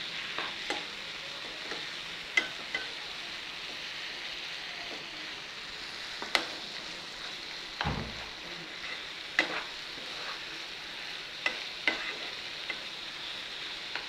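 Paneer, onion-tomato masala and steamed drumstick flesh sizzling in a pan on the gas while a spatula stirs them, being sautéed until the mixture binds. A handful of sharp clicks of the spatula striking the pan are spread through it, with a dull knock about eight seconds in.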